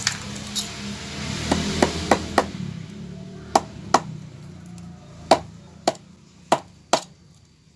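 Hammer blows on wood: about ten sharp, separate strikes, four in quick succession, then three spaced pairs.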